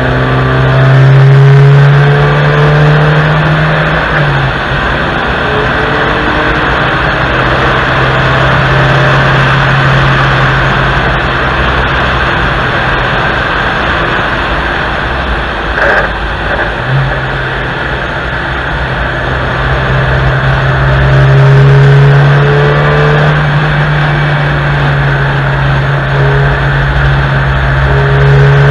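Honda Civic IV hatchback's four-cylinder engine running hard at high revs on track, its note swelling louder twice, under heavy wind and road noise from a camera mounted low outside the car. A short knock about halfway through.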